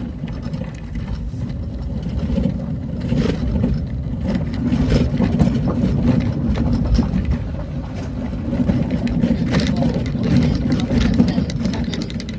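A motor vehicle travelling along a road: a steady low engine and road rumble with frequent rattles and knocks over it.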